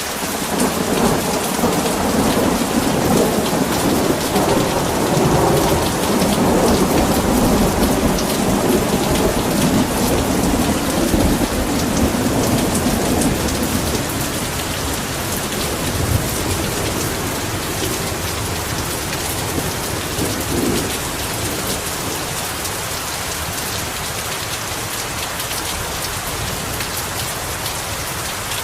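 Heavy rain falling steadily as an even hiss, with a long rolling rumble of thunder under it through the first half that slowly dies away.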